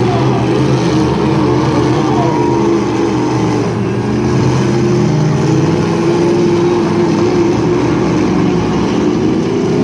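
Several demolition derby trucks' engines running and revving at once, the pitches shifting up and down over each other without a break.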